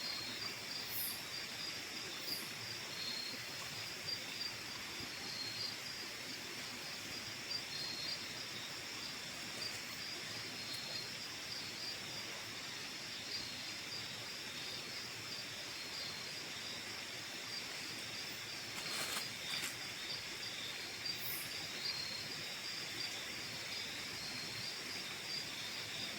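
Steady chorus of crickets and other night insects, a high pulsing trill over a soft hiss, with a few faint rustles or clicks about two-thirds of the way through.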